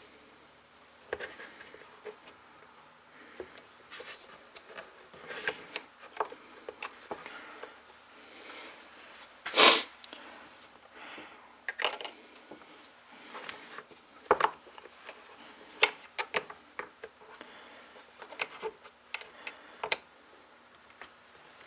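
Hands and small tools working a fuel line into a chainsaw's fuel tank: scattered light clicks, taps and rubbing of plastic and rubber parts, with one louder short rushing noise about ten seconds in.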